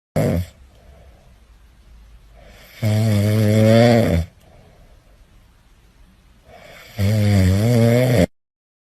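Loud snoring: two long, wavering snores about four seconds apart, with soft breathing between them, after a short sharp sound at the very start. It cuts off suddenly near the end.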